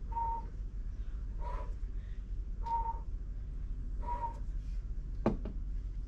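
A bird repeating a short, steady-pitched call at an even pace, about one every 1.3 seconds. A brief sharp sound comes about five seconds in.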